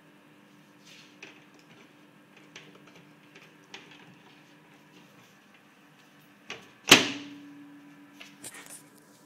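A steady low hum with scattered light clicks, and one loud sharp bang about seven seconds in that rings out briefly, followed by a few more clicks.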